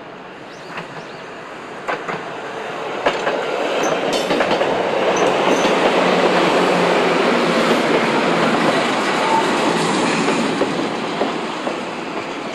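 Chichibu Railway electric multiple-unit train passing close by, its wheels clicking over rail joints as it nears, the running noise rising to a peak midway and then fading.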